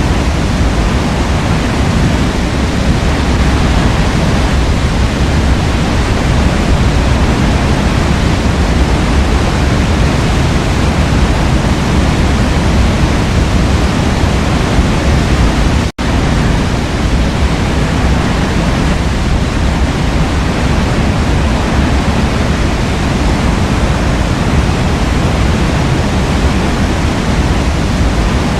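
Forest waterfall rushing steadily, a dense, constant sound of falling water heaviest in the low range. It cuts out for an instant about halfway through.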